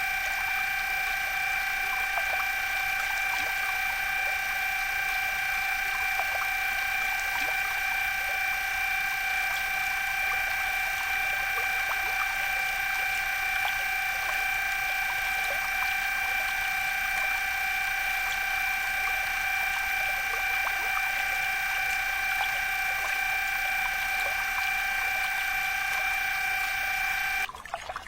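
Small geared DC motor running steadily with a high, even whine and faint ticking from its gears, cutting off suddenly near the end.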